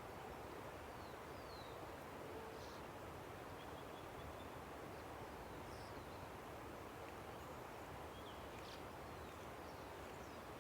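Steady, faint rush of a river, with scattered short high bird chirps and quick descending calls over it.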